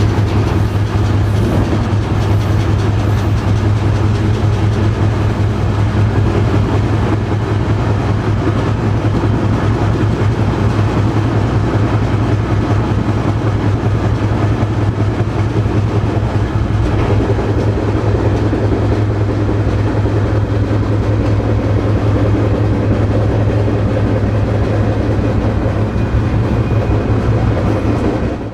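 Freight train rolling along the rails, heard from aboard: a loud, steady rumble of wheels and cars.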